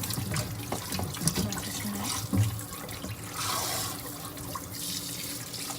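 Kitchen tap running into a sink as raw chicken is rinsed under it, with light knocks of handling. The water gets louder for about a second a little past the middle.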